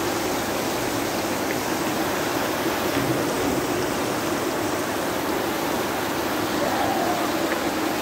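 Steady rushing of falling water from an outdoor water feature, with faint distant voices near the end.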